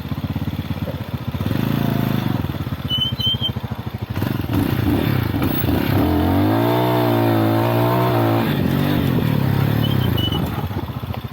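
Lifan Xpect motorcycle engine running, its pitch rising and falling again about halfway through as the revs go up and come back down.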